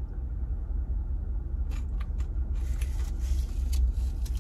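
Crunchy chewing of a crispy fried corn dog close to the microphone, a run of short crackles starting a little under two seconds in, over a steady low rumble of the car.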